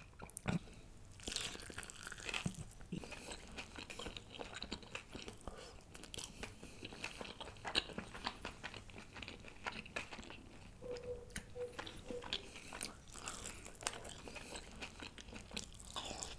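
A person biting into and chewing a sauce-coated chicken drumstick, with many small clicks and crackles of eating throughout.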